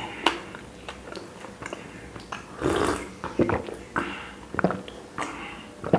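Close-miked chewing and mouth noises of a person eating chapati, with short wet smacks and clicks and a longer noisy rush near the middle.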